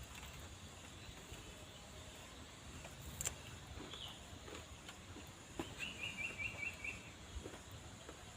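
Birds calling over a faint outdoor background, with a quick run of about five short chirps about six seconds in.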